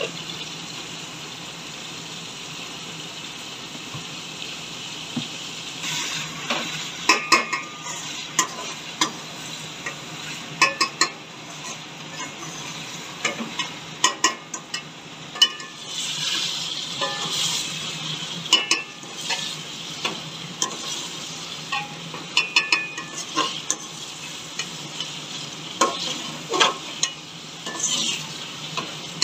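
Chicken and tinda pieces frying in oil in a metal pan with a steady sizzle, while a steel spoon stirs them, scraping and clinking against the pan over and over from about six seconds in.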